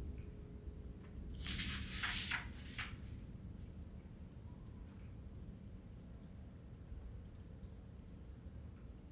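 Quiet night ambience: a steady, high, even chirring, like a chorus of crickets, over a low rumble. A short cluster of rustling strokes comes about two seconds in.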